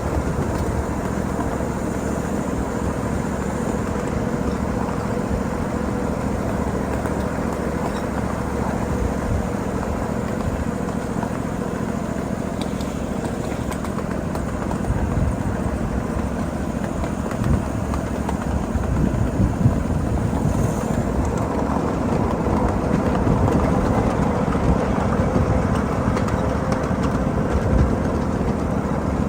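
Steady rumble of a 7.5-inch gauge ride-on miniature train rolling along its track, with a few light knocks from the wheels and rails.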